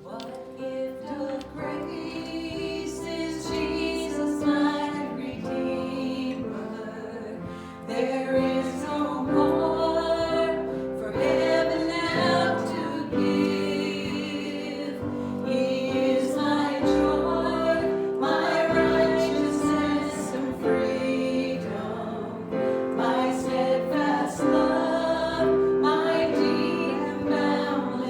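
Worship singing in a church service, voices with piano accompaniment, swelling louder about eight seconds in.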